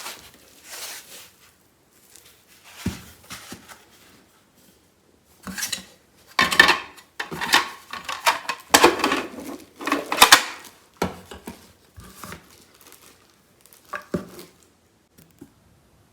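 Hard plastic parts of a pet water fountain being handled, with irregular clacks and clatters mixed with packaging crinkling, busiest in the middle.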